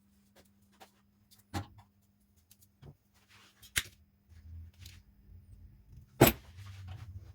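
Hand work on metal fan parts: a few sharp knocks and clicks, the loudest about six seconds in, with fainter ticks and a low rumble of handling over a steady low hum.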